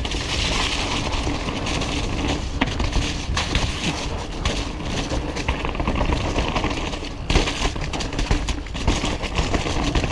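Mountain bike descending a wet, muddy downhill trail at speed: wind rushing over the camera microphone, tyres running through mud, and the bike rattling with many small knocks and clatters over roots and rocks.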